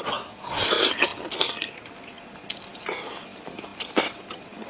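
A person huffing out breath through the mouth in noisy bursts around a scalding-hot mouthful of blood sausage, with a few sharp clicks of utensils on a dish, the loudest near the end.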